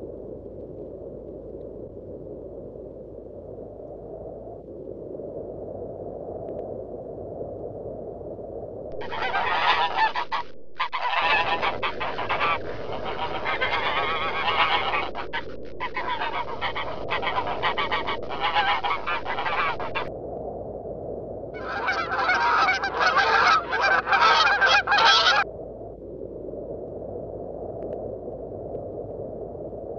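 Trumpeter swans honking over and over, several birds at once: a long run of calls lasting about ten seconds, then a shorter bout a couple of seconds later, over a low steady background noise.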